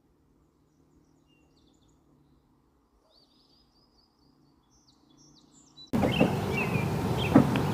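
Faint birds chirping over near-quiet outdoor air. About six seconds in, the sound cuts abruptly to a much louder steady outdoor noise with a few sharp knocks and more bird chirps.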